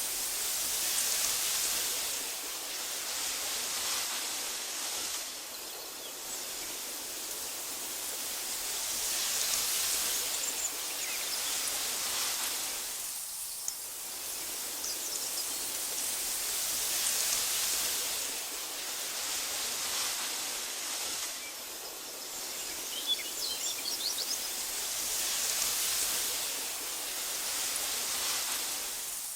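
Wind blowing through tall meadow grass, swelling and easing in slow gusts about every eight seconds. A few faint high chirps come through, mostly in a short cluster past the middle.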